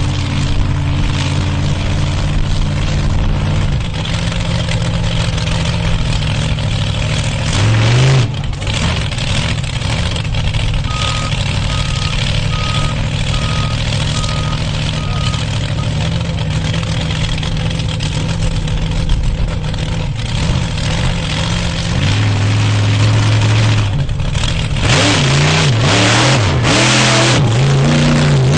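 Monster truck engine running loud and steady, revving up briefly about eight seconds in and revving repeatedly near the end.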